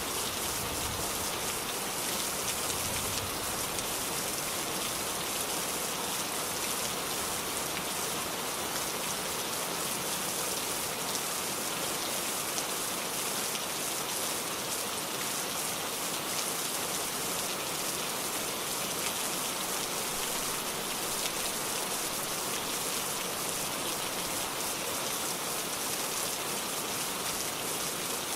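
Steady rain falling, a continuous hiss of many fine drops with no let-up.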